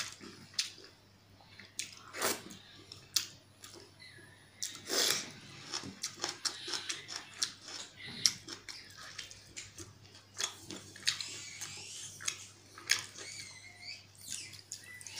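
Close-up chewing and lip smacking of a person eating pakhala (watered rice) with potato curry by hand: a run of wet mouth clicks and smacks, several a second.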